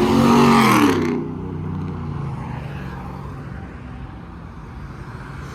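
Motorcycle engine revving loudly for about a second, its pitch bending, then cutting back to a lower steady engine rumble.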